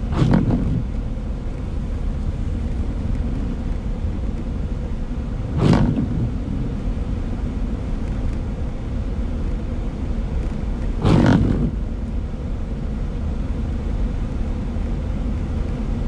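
Car cabin noise while driving on a slushy road: a steady low rumble of engine and tyres, with a windshield wiper sweep on intermittent setting about every five and a half seconds, four in all.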